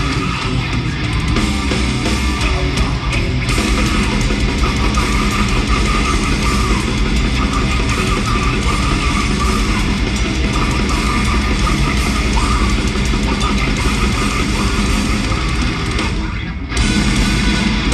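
Live heavy metal band playing loud, with distorted guitar and drums. The music drops out briefly about sixteen seconds in, then comes back in.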